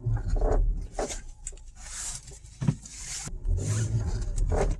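Front suspension of a 2011 Audi A4 creaking and knocking repeatedly over a low rumble, with a sharp knock near the middle: the sign of worn, cracked bushings in the rearward lower control arm.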